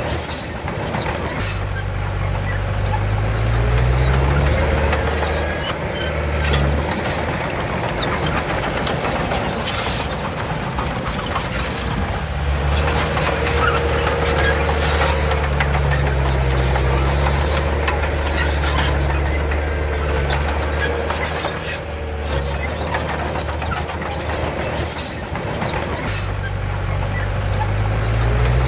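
Komatsu D31 bulldozer's diesel engine running under load, rising in pitch as it revs about two seconds in and again near the end, with a steady whine above the engine note and scattered metallic clinks.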